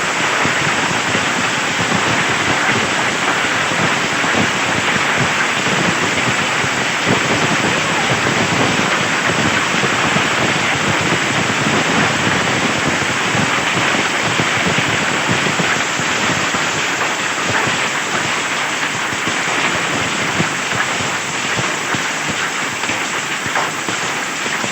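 Heavy downpour pelting a surface in a dense, steady patter.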